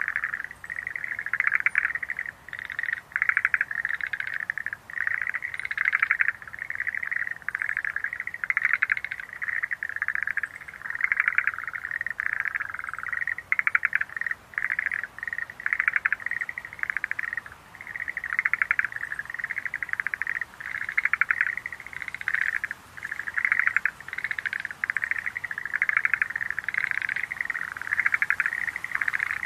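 A chorus of Schlegel's green tree frogs: rapid pulsed trilling calls that overlap and follow one another with only brief gaps.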